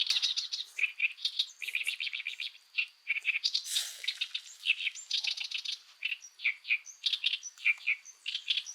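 Wild birds chirping and calling, many short rapid chirps overlapping one another.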